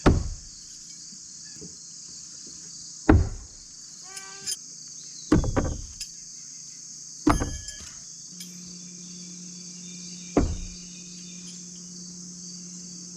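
Throwing knives striking a wooden target, five sharp thuds a few seconds apart. A steady chorus of crickets runs underneath.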